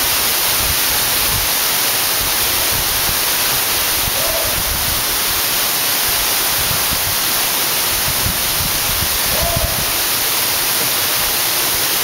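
Steady rush of an 80-foot waterfall falling onto rock and pool, a loud even noise. Two brief chirps sound over it, about four seconds in and again near the end.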